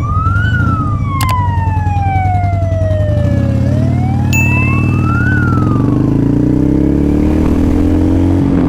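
Emergency vehicle siren wailing, sweeping slowly up and down twice, over a motorcycle engine that climbs in pitch over the last few seconds as it picks up speed. A short high beep about four seconds in.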